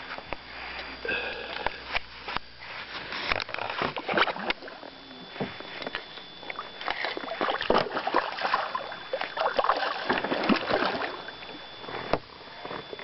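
Irregular knocks, clatter and splashes of water in and around a small fishing boat, with a faint steady high tone from about four seconds in.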